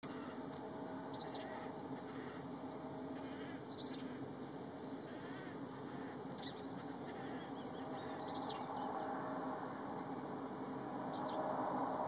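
Bird calls in the open air: several short, high chirps, each a quick downward slide, spaced irregularly a second or a few seconds apart, over a steady low background hum.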